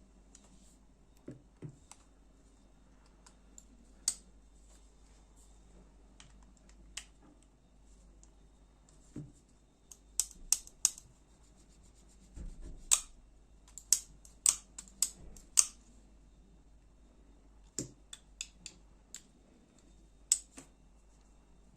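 Irregular sharp clicks and light taps of small metal parts and tools being handled during a folding knife's disassembly, with a few duller knocks. The clicks bunch together in the middle of the stretch.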